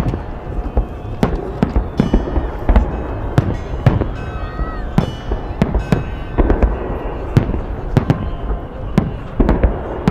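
Festive fireworks salute bursting overhead: loud, sharp bangs one after another at irregular intervals, one to three a second.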